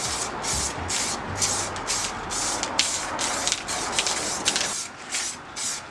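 Aerosol spray paint can hissing in quick short bursts, about two to three a second, laying down a coat of paint on cleaned alternator parts. The spraying stops near the end.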